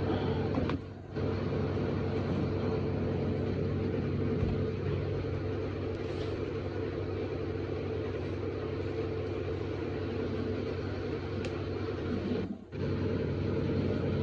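Steady low machine hum, cutting out briefly about a second in and again near the end.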